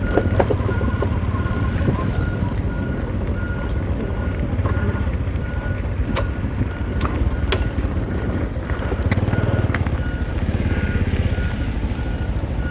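Heavy diesel road-construction machinery running at an asphalt paving site, with a reversing alarm beeping about twice a second and occasional metallic clanks.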